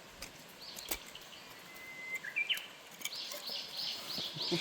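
A songbird calling: a thin whistled note, then a quick run of about six repeated chirping notes in the second half. Two light clicks within the first second.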